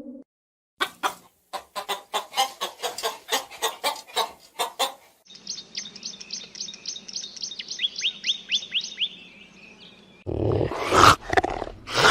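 A run of animal calls. First come rapid short bird calls at about four a second, then a small bird's high chirps with quick falling sweeps, repeated about three a second. About ten seconds in, a loud, harsh animal call takes over.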